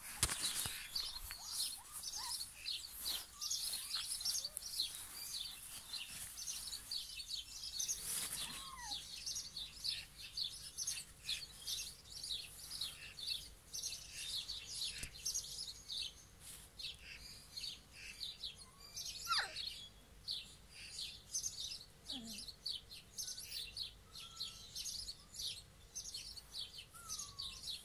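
Small birds chirping without a break, a dense chatter of short, high chirps. A few lower sliding calls stand out about two-thirds of the way through.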